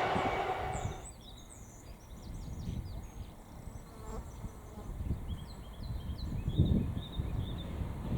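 The rumble of a passing train cuts off about a second in, leaving small birds chirping with many short high calls, over low gusts of wind buffeting the microphone.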